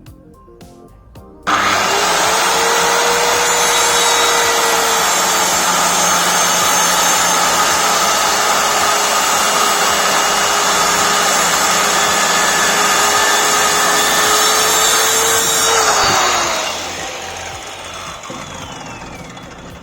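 Stanley SC16 1600 W circular saw running and cutting wood, starting suddenly about a second and a half in and holding a loud, steady whine for about fourteen seconds. Near the end it is released and the blade winds down, its whine falling in pitch as it fades.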